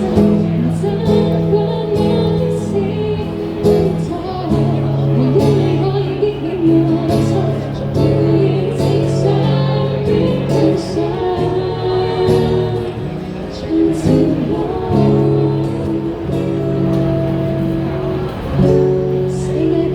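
Live band playing a song, with a woman singing over instrumental accompaniment.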